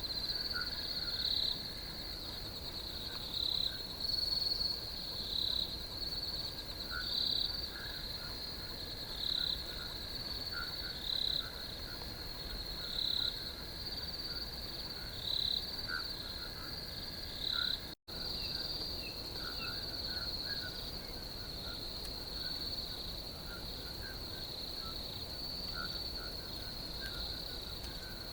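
Crickets trilling in a steady high chorus, with louder pulses about every two seconds through the first two-thirds and fainter, lower chirps scattered throughout. The sound cuts out for an instant about two-thirds of the way through, then the trilling carries on evenly.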